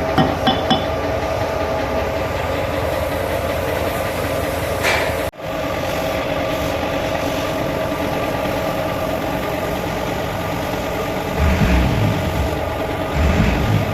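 An engine idling steadily, with a brief dropout about five seconds in and a few low thumps near the end.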